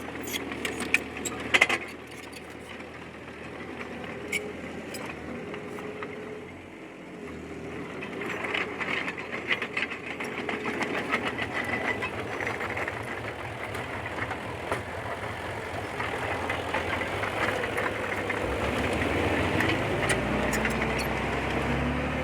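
D20P crawler bulldozer's diesel engine running steadily, with sharp metallic clanks in the first two seconds. Near the end the engine speeds up, its pitch rising.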